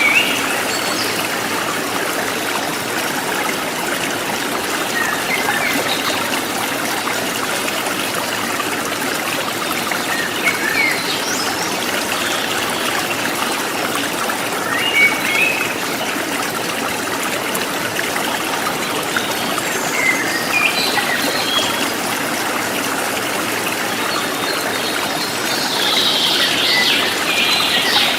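Small river or stream flowing steadily over stones, a constant trickling rush, with short high bird chirps scattered through it and a busier cluster near the end.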